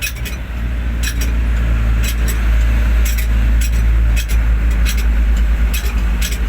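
Hino 500 truck's diesel engine running with a steady low rumble that swells a little in the first couple of seconds. Sharp metallic clinks are scattered irregularly over it.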